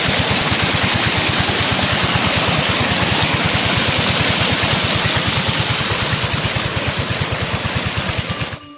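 16 HP diesel engine driving a tube-well water pump, running with a fast, even chugging beat over a loud rushing hiss. It cuts off abruptly near the end.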